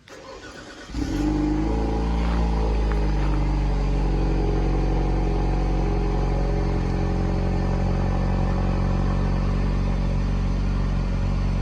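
2017 Cadillac ATS's 2.0-litre turbocharged inline-four cold-starting by remote start after four days in sub-zero weather. It cranks briefly, catches about a second in with a flare, then settles into a steady idle.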